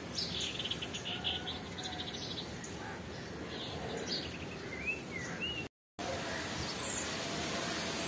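Small birds chirping, with a quick run of high chirps in the first two seconds and a few short rising and falling whistles a little past the middle, over a steady outdoor hiss. The sound cuts out briefly about six seconds in, then only the background hiss goes on.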